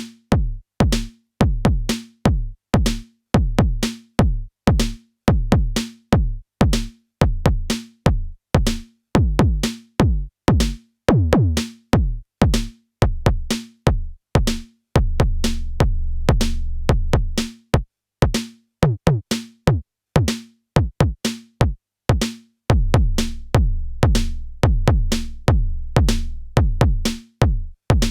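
Modor DR-2 digital drum synthesizer playing an improvised pattern of synthesized kick drums and pitched drum hits, each hit sweeping quickly down in pitch. A steady low bass note holds for a few seconds past the middle.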